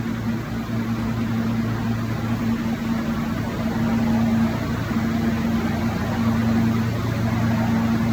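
Steady noise of a New York City subway train, an even rumble with a low electrical hum running through it.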